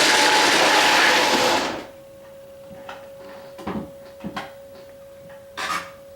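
Model train under the Christmas tree running with a loud mechanical whirr, cutting off abruptly about two seconds in. A faint steady tone and a few soft clicks follow.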